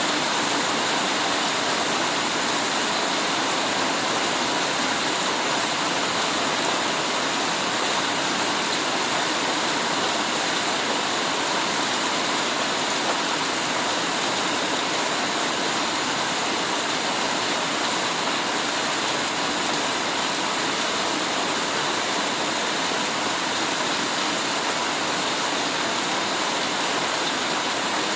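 Heavy rain falling steadily, an even unbroken hiss with no single drops or thunder standing out.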